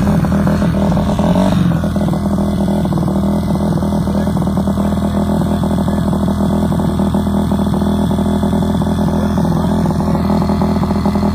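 Small off-road engine running steadily close by, with an even, rapid firing pulse.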